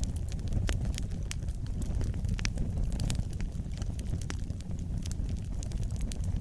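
Wood fire burning with a steady low rumble of flames and frequent sharp, irregular crackles and pops from the burning logs.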